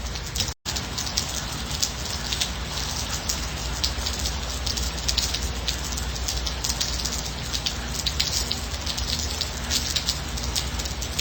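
Steady gentle rain, with many separate drops ticking over a constant hiss and a low rumble. The sound cuts out completely for an instant about half a second in.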